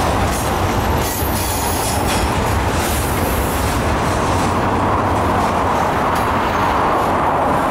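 Freight cars of a mixed freight train rolling past: a loud, steady rumble and clatter of steel wheels on the rails, with a wheel squeal that grows louder in the second half.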